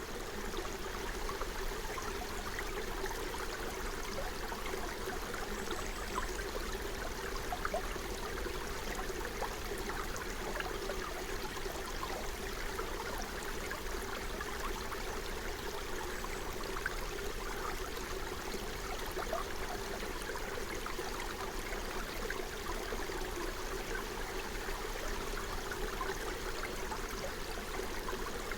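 Forest stream running: a steady rush of flowing water with many small splashes scattered through it.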